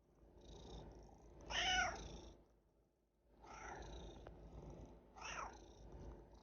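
A domestic cat purring steadily, with short pitched meows over the purr: the loudest about a second and a half in, and more around three and a half and five seconds in.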